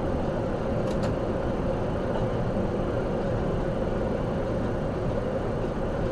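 Steady engine and road noise of a moving vehicle, as picked up by a dash cam, with two faint ticks about a second in.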